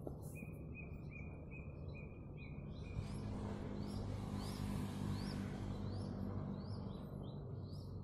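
Small birds calling: a run of short, evenly repeated high notes for the first few seconds, then a string of quick rising chirps about twice a second, over steady low background noise.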